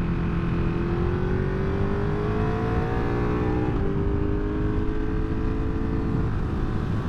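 Motorcycle engine pulling, its pitch rising for a few seconds, with a brief change in the note about four seconds in before it holds steady, over steady wind rush.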